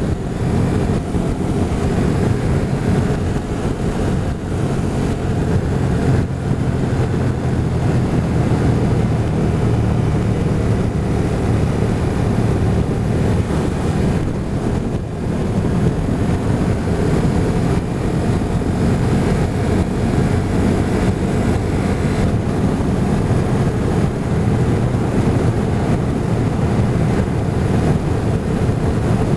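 Motorcycle riding at a steady speed: the engine running evenly under heavy wind rush on the microphone.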